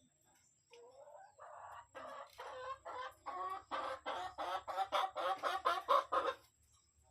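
Hen cackling: a run of short clucks that come faster and grow louder, then stop about a second before the end.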